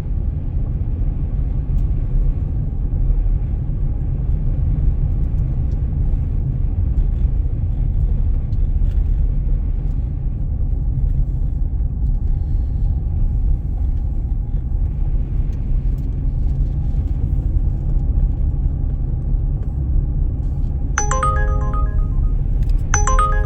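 Steady low rumble of a car driving on a snowy road. Near the end, a few short pitched musical notes come in over it.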